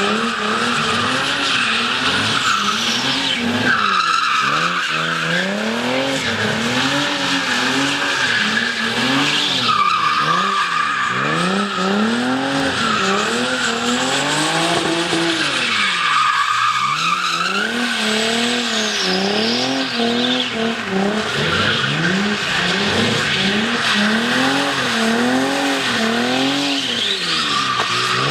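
Car engine revving up and down over and over while the tyres squeal continuously, as in a drifting or burnout demonstration.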